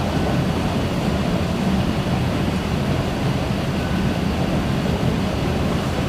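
Singapore MRT electric train running, giving a steady low rumble of wheels on rails and traction motors.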